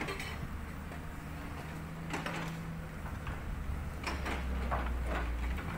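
Cat 320D hydraulic excavator's diesel engine running steadily, its low note growing stronger about halfway through. Scattered clinks and scraping knocks of rock and steel come about two seconds in and again near the end.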